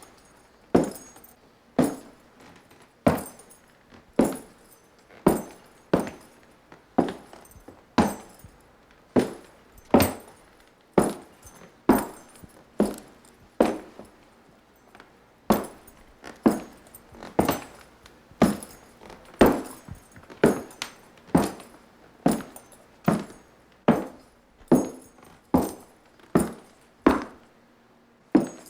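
A long series of sharp taps or clinks of something hard, about one or two a second at uneven spacing, each dying away quickly.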